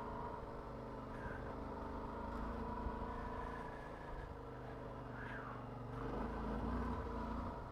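Motorcycle engine running steadily under way, getting a little louder near the end.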